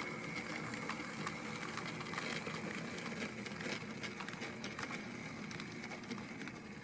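Bachmann GE 70-ton switcher model locomotive running slowly along the track with a short train: a faint steady motor hum with a thin high whine and light clicking of wheels on the rails.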